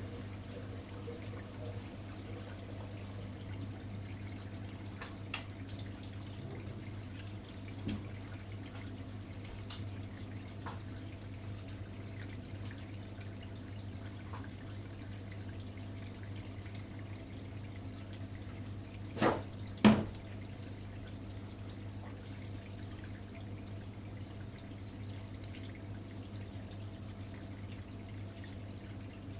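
Atlant 70C1010 front-loading washing machine running a wash cycle: water sloshing in the drum over a steady low hum. A few light clicks and two louder knocks come about two-thirds of the way in.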